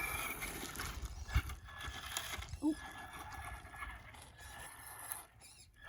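Small electric RC car driving, its motor giving a faint high whine, with a couple of short knocks as it lurches.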